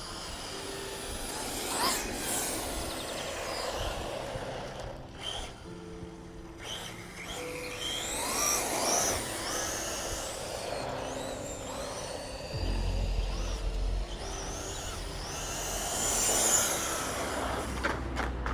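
Electric RC car driving, its motor whine sweeping up and down with the throttle amid tyre noise, over background music with steady held notes.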